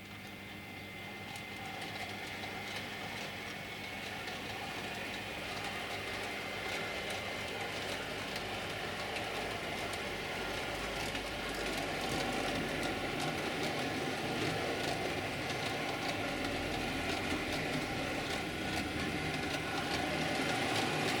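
Model train, the Silver Fox locomotive and six coaches, running on the helix track: a steady electric motor hum and whine with fine rapid clicking of wheels on the rails, growing gradually louder as it comes nearer.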